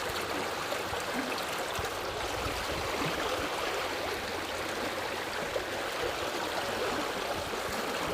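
Forest river flowing over rocks: a steady rush of water with fine gurgling.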